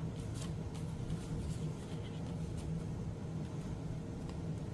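Paper being handled, with light rustles and small taps, over the steady hum of an air conditioner running.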